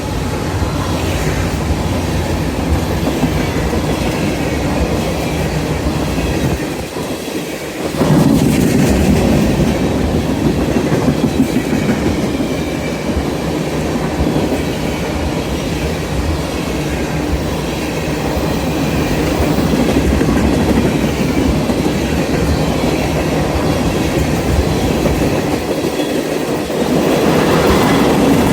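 Freight train cars rolling past, their wheels clicking steadily over the rail joints. The sound dips briefly about seven seconds in, then comes back louder.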